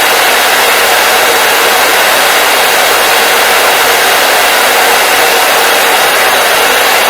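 Hair dryer blowing steadily, a loud, even rushing noise with no change in pitch or speed.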